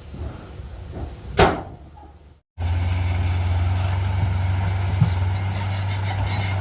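Heavy earthmoving machinery at work, with one short loud burst of noise about a second and a half in. After a brief cut to silence, a heavy diesel engine runs with a steady low drone.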